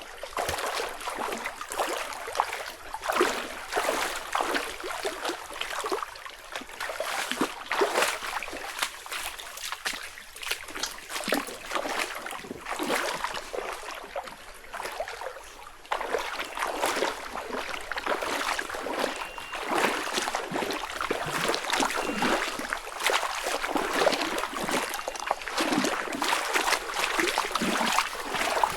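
Running water splashing and trickling, an uneven, crackling rush that gets a little louder about halfway through.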